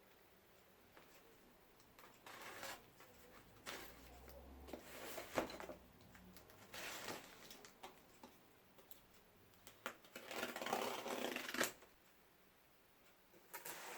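Intermittent rustling and handling noises: several short scrapes and rustles, with a longer rustle about ten seconds in.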